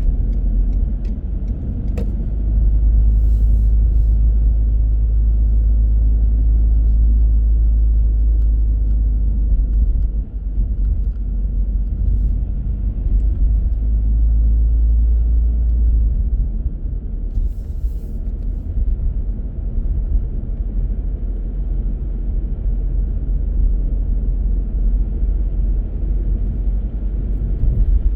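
Car driving steadily, a low rumble of road and engine noise heard from inside the car; it grows louder about two seconds in and eases a little past the middle. A single sharp click comes about two seconds in.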